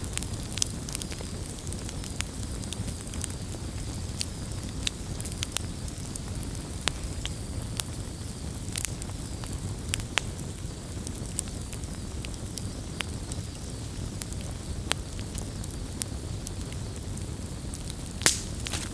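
Campfire burning with a steady low rumble and frequent sharp crackles and pops of burning wood, one louder pop near the end.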